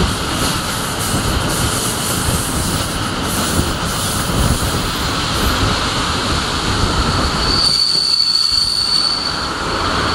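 Passenger train carriage running on the track, heard from an open window: a steady rumble and rattle of the wheels. About three-quarters of the way in the rumble falls away and a steady high-pitched squeal from the wheels and brakes sets in as the train slows for a halt.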